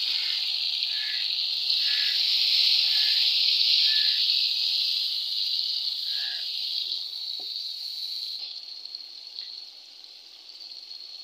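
Tomato paste and green chillies sizzling hard in hot ghee in a frying pot. The loud hiss eases off and dies down over the second half.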